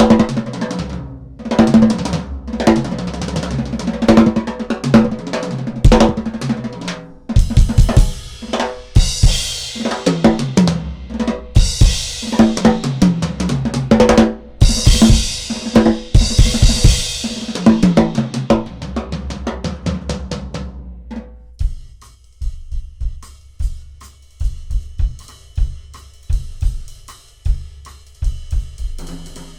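Drum kit solo: dense strokes across snare, toms and kick drum, with two long swells of crashing cymbals. About two-thirds of the way through it drops back to sparser, quieter strokes.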